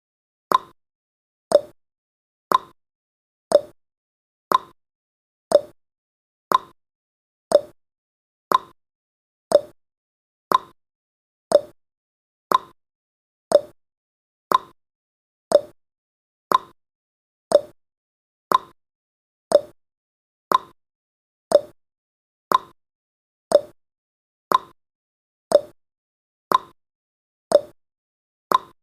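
Clock-style tick-tock sound effect marking each second of a countdown timer: one sharp tick a second, alternating between a higher tick and a lower tock.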